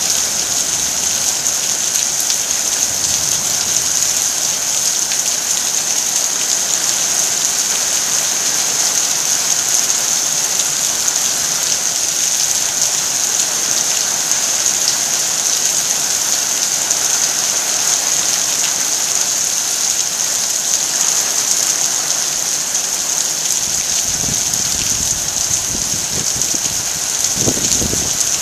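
Heavy rain falling steadily, an even hiss of drops on surfaces. A few brief low rumbles come in near the end.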